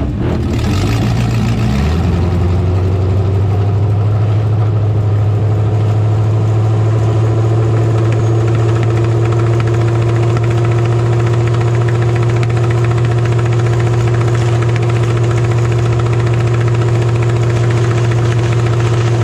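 Demolition derby truck's engine running, its pitch wavering for about two seconds and then holding steady.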